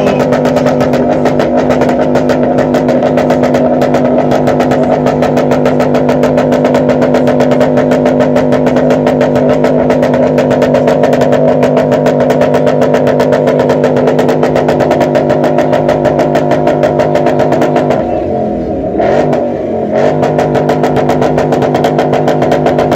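Muscle car engine held at high, steady revs during a burnout. It revs up just before, holds one pitch for about eighteen seconds, dips and wavers briefly, then climbs back to the same revs.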